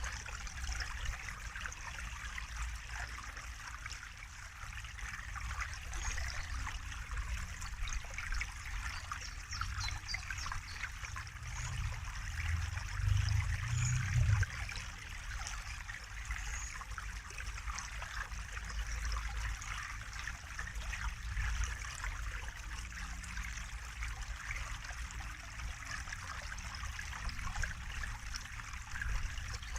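Running water trickling steadily, with a low rumble that swells for a couple of seconds about halfway through.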